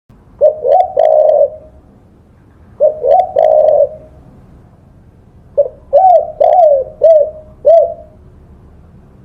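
Spotted dove (tekukur) cooing in three phrases: two alike, each two short coos and a longer one, then a longer run of about five short coos.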